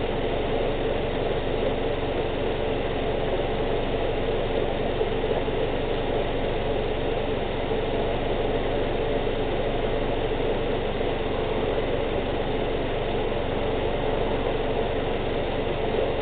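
Subaru Outback's 2.5-litre boxer four-cylinder engine idling steadily. It is left running so that the CVT fluid can be checked at operating temperature while it is topped up.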